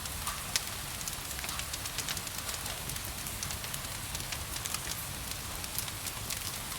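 Wood fire crackling with frequent small pops over a steady hiss of rain, with one sharper pop about half a second in.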